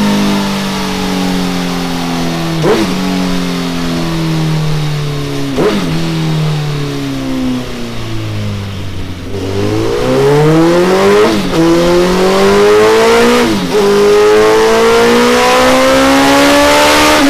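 Suzuki Hayabusa inline-four engine running through a Delkevic oval carbon 4-into-1 exhaust on a dyno. The revs sink slowly for about nine seconds, then climb steadily to the end. Short sharp blips cut into the note every few seconds.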